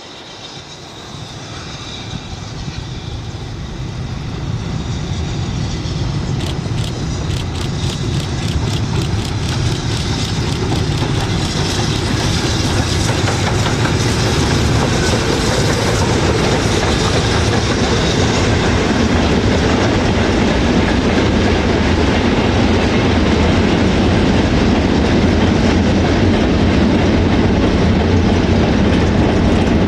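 A steam-hauled train approaches and runs past, growing steadily louder over roughly the first twelve seconds, then staying loud with the rumble of wheels on the track. A quick run of regular clicks comes partway through.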